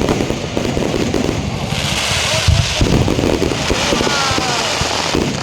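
Fireworks going off: repeated low booms under a dense crackle, with a spell of hissing crackle about two seconds in.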